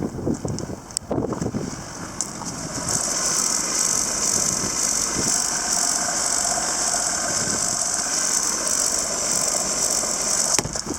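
Steady mechanical whirring from a 1999 Suzuki Carry mini truck, starting about three seconds in and cutting off suddenly with a click near the end.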